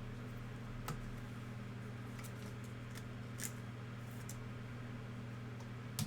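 Basketball trading cards being handled and flipped through one by one: scattered soft clicks and slides of card stock, the sharpest near the end, over a steady low hum.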